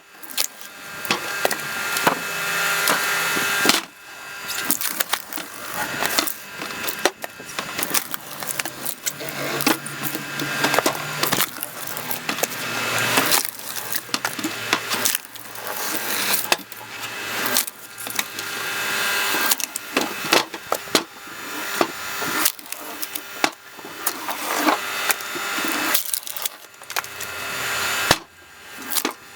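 Screw-cone log splitter driving into logs: the wood creaks and crackles in repeated swells that end in sharp cracks as it splits apart, with the splitter's motor running steadily underneath.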